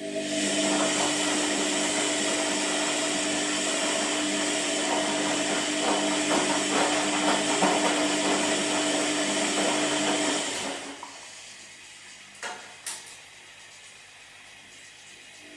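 Washing machine running: a motor hum over churning, hissing water for about ten seconds, then it stops. Two sharp clicks come in the pause.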